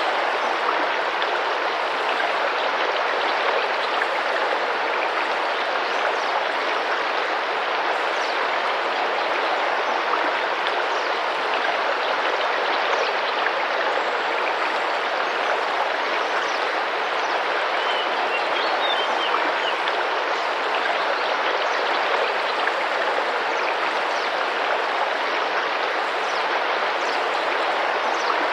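Tropical rainforest river flowing, a steady rush of water with small splashes throughout.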